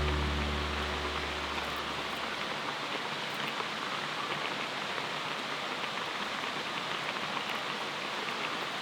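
Background music fades out over the first couple of seconds, leaving a steady rush of flowing river water.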